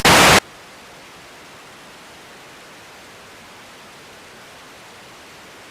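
Steady faint hiss of an air traffic control radio feed between transmissions, after a short loud burst of static at the very start as the previous transmission ends.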